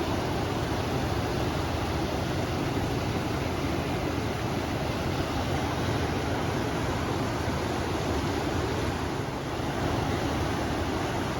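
River water rushing steadily, mixed with wind, an even rushing noise heaviest in the low end.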